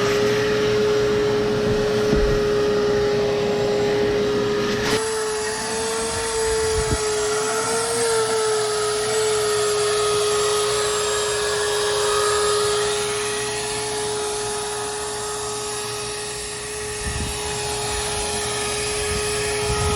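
Shop vacuum running steadily with a high motor whine over a rush of airflow. The pitch wavers slightly for a few seconds partway through.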